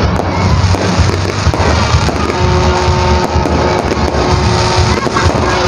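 Aerial fireworks display going off overhead: a continuous din of deep bangs with dense crackling from the bursting stars. A few steady held tones join about two seconds in.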